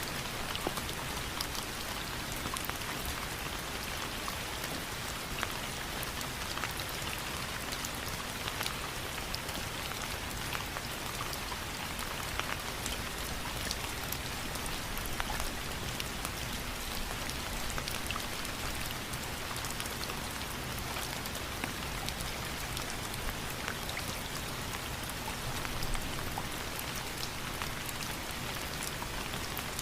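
Steady rain falling: an even hiss with many separate drops ticking on a surface.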